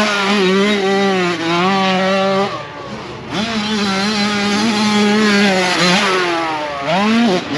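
Motocross bike engine held at high revs, easing off briefly about three seconds in, then pulling back up, with quick rev blips near the end.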